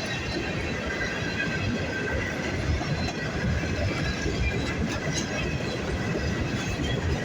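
Train rolling past: a steady rumble of wheels on rail, with faint high squealing and a few light clicks from the wheels.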